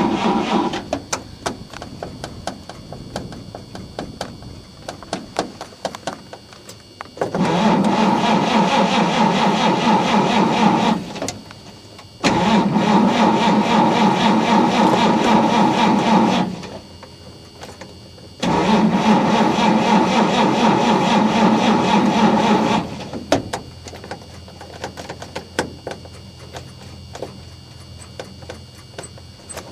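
1948 Chevrolet's six-cylinder engine cranking on the starter in three long tries of about four seconds each, without catching: the engine is flooded. Lighter clicks and knocks fill the pauses between tries.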